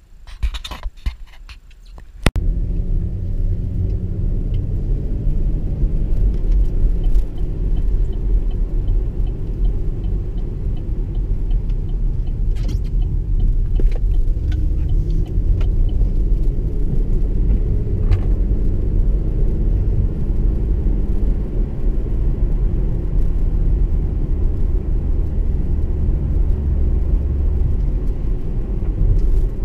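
Wind rumble and road noise of a moving car, heard through a GoPro HERO4's microphone with the wind hitting it. It starts suddenly about two seconds in, after a quieter moment with a few clicks, and then holds steady.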